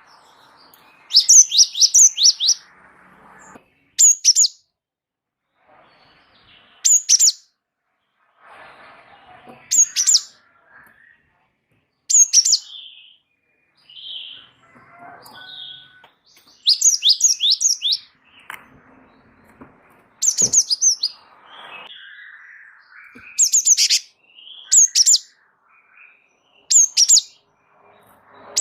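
Gelatik wingko (gelatik batu, the cinereous tit) singing in a lively run: short, loud bursts of three to five quick, high, downward-slurred notes, repeated every one to three seconds.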